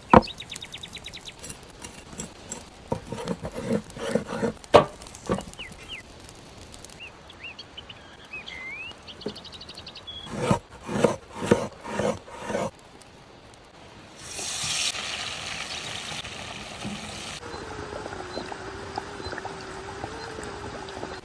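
Kitchen food-preparation sounds: irregular knocks and clatters of utensils and handling, then a hiss lasting about three seconds, then a steady hum near the end.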